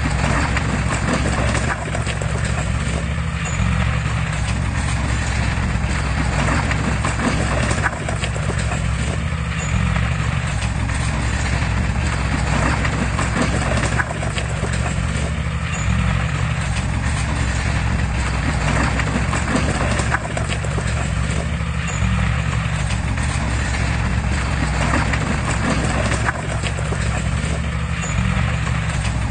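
Heavy diesel machinery running steadily with rhythmic metallic clatter, the kind of clanking made by crawler tracks; the pattern repeats about every six seconds.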